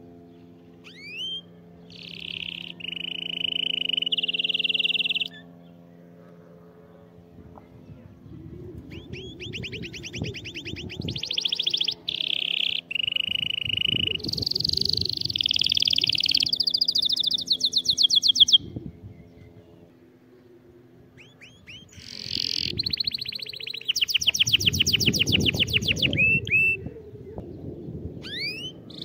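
Domestic canary singing in three long bouts of fast rolling trills and held whistled notes, with pauses between them. A steady low hum runs beneath.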